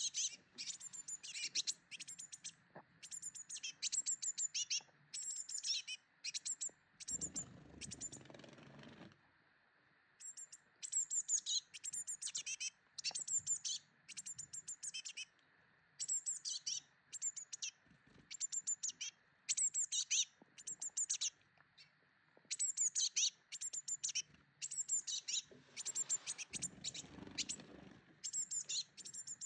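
Small birds chirping: quick, high twittering bursts, about one a second, with short pauses between runs. A low rumble comes in twice, about a quarter and near the end of the way through.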